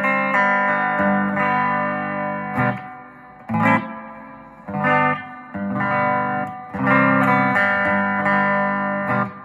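Electric guitar chords strummed through a Gibson GA-25RVT Hawk amplifier with its spring reverb turned on; about eight chords are struck, each left to ring out and fade.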